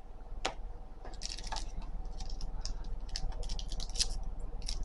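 Magic: The Gathering trading cards being handled and sorted by hand: one sharp click about half a second in, then a run of quick crisp card slides, flicks and rustles.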